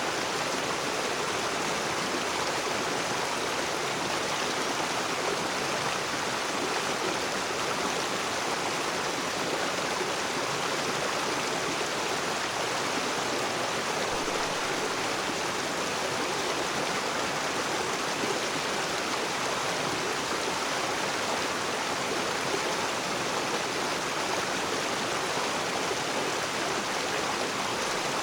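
A rocky river running over stones, a steady, even rush of flowing water.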